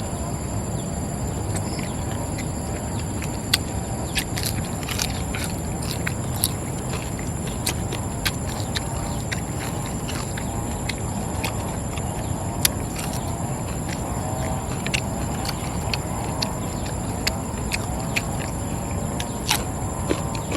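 A steady low rumble and hiss with sharp, irregular crackles and pops scattered through it, one every second or so.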